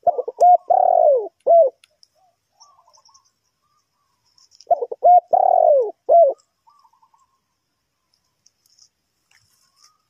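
Spotted dove cooing: two phrases about four and a half seconds apart, each a few quick coos, then a longer coo falling in pitch and a short final coo.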